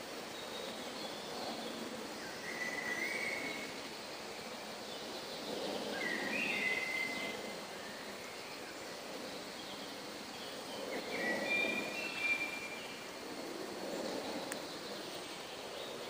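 Songbirds singing short phrases at intervals, three or four times, over a steady low rushing background that swells and fades a few times.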